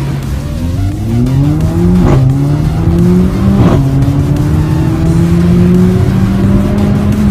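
Mercedes-Benz CLA45 AMG's turbocharged four-cylinder accelerating hard through the gears: the engine pitch climbs, drops at two quick upshifts each marked by a sharp crack, then rises slowly and steadily in the next gear.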